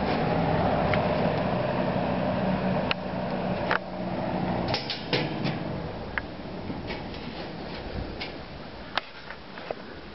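Vintage McGraw-Edison Eskimo two-speed box fan running with a steady hum. About three seconds in there are sharp clicks, then the sound drops and fades as the fan slows, with scattered ticks and clicks after.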